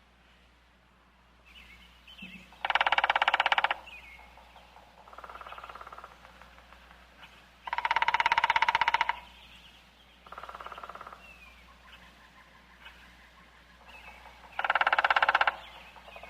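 A bird calling loudly and harshly three times, each call about a second long and several seconds apart. Softer, shorter calls and faint chirps come in between.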